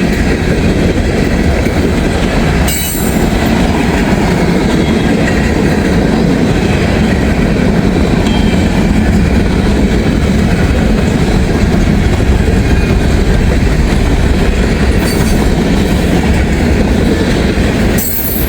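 Freight train cars rolling past close by: a loud, steady rumble and clatter of steel wheels on rail, with two brief dips in level, about three seconds in and near the end.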